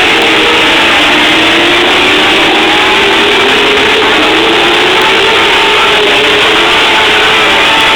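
Engines of several TQ midget race cars running at racing speed, their pitches rising and falling and overlapping as the cars circle the track. Loud throughout.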